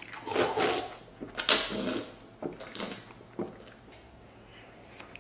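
A person eating braised pork intestine and pork belly with loud, wet mouth sounds: a few slurping, smacking bursts in the first three seconds, the loudest about a second and a half in, then only faint chewing.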